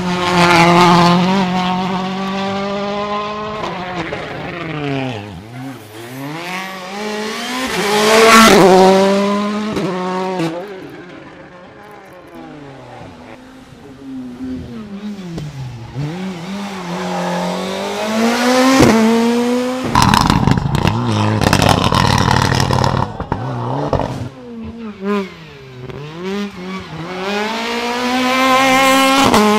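World Rally Car engines at full throttle, passing one after another, revving up and dropping in pitch with gear changes as each goes by. The loudest pass comes about eight seconds in, and a rough crackling, rushing stretch runs from about twenty to twenty-three seconds.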